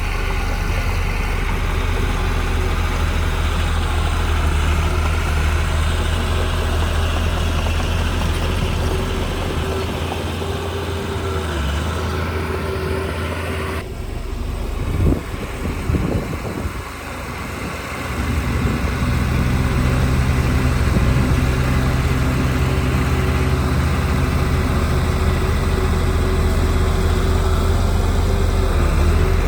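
Heavy diesel engines of earthmoving machinery, a bulldozer and dump trucks, running at a steady pitch. About halfway through the sound changes abruptly, a few sharp knocks follow, and then the engine runs steadily again at a different pitch.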